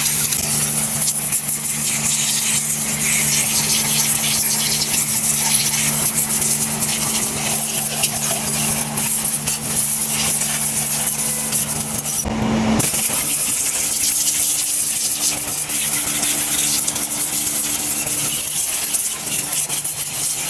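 High-pressure spray hissing steadily over an engine being cleaned, with a steady machine hum underneath. There is a short break about twelve seconds in, after which the hum changes pitch.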